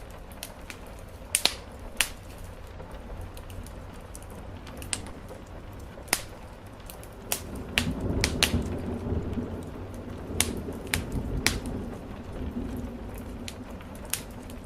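Wood fire crackling with sharp, irregular pops over a steady patter of rain on a roof. A low rumble swells about eight seconds in and fades by about twelve seconds.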